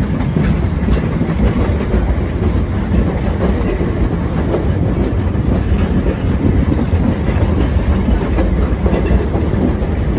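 Narrow-gauge heritage train running along the Walhalla line, heard from aboard a carriage: a steady rumble of wheels on the rails with short clicks here and there.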